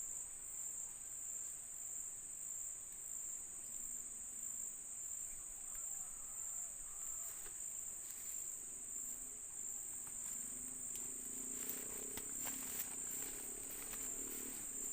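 A steady, high, unbroken chirring of insects, with a few faint clicks and low tones in the second half.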